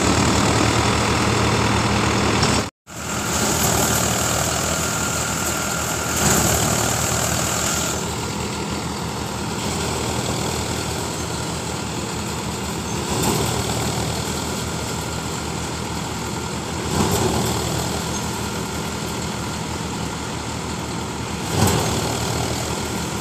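Sonalika DI 750 tractor's diesel engine running steadily. There is a brief total dropout about three seconds in and a few short swells in level later on.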